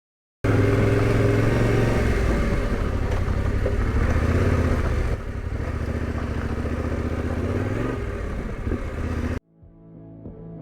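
Motorcycle engine running, starting suddenly after a brief silence; the sound changes abruptly to a slightly quieter engine about five seconds in and cuts off near the end, where faint music begins.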